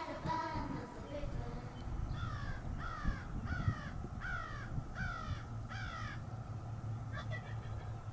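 A bird calling six times in an even series, each harsh call falling in pitch, with a short gap between calls.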